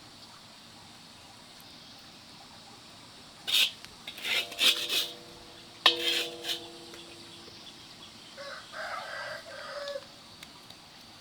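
Chickens calling in short, sharp squawks, with a rooster crowing in one long held call about six seconds in and a fainter call a few seconds later.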